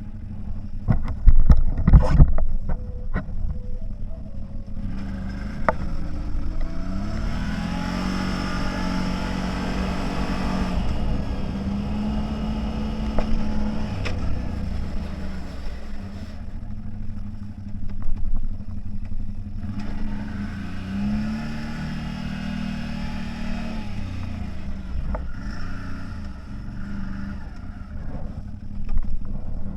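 CFMoto 1000 off-road vehicle's engine running on the move, revving up twice and settling back to a steady note. A few loud knocks about a second or two in.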